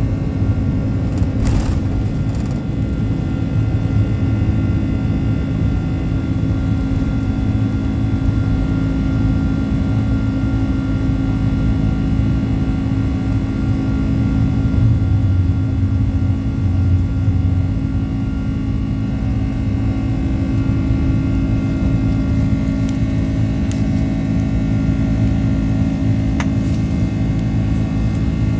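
Airbus A330's jet engines at takeoff power, heard from inside the passenger cabin: a steady, loud rumble with several held whining tones over it. A couple of brief clicks come near the start and near the end.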